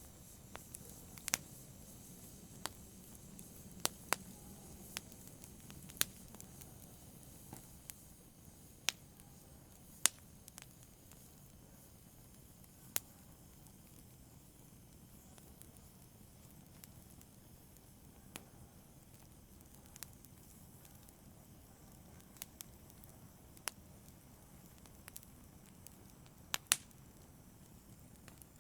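Wood fire crackling softly: sparse, sharp pops and snaps at irregular intervals over a low, steady hiss, with two louder pops, one about ten seconds in and one near the end.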